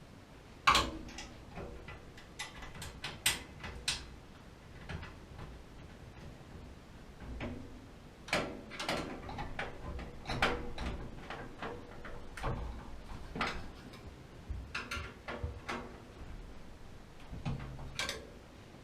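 Irregular clicks, taps and knocks of parts and tools being handled while a gas water heater is worked on, some of them sharp clinks.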